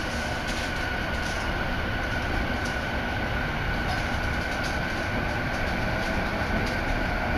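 Electric commuter train running along the line, heard from inside the carriage: a steady rumble of wheels on rail with a steady high tone over it and faint scattered clicks.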